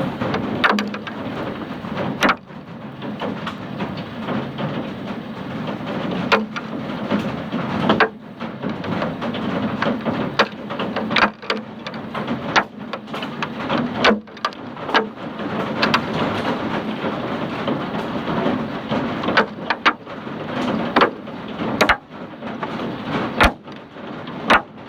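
Hail with rain pelting down in a dense, steady clatter, with frequent sharper cracks of single hailstones striking close by.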